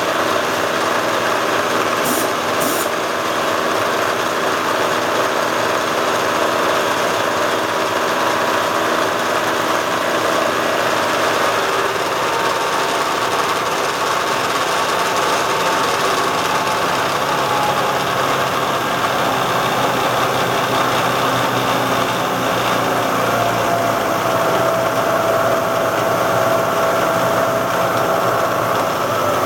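Bridgeport J-head vertical milling machine running: its 2 HP three-phase spindle motor and variable-speed belt head hum steadily, with the quill power feed engaged. The tone shifts a little past halfway, and two short high ticks come about two seconds in.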